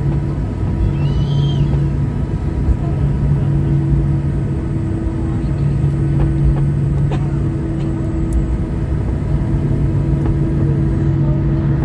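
Cabin noise of a Boeing 737-800 taxiing: the CFM56 engines run steadily at taxi idle with a low hum, over the rumble of the wheels. A faint short squeak comes about a second in.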